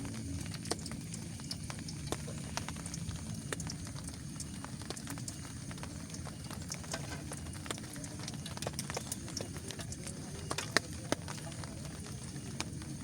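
A steady low rumble with irregular sharp ticks and pops scattered through it, two louder pops a little before the end.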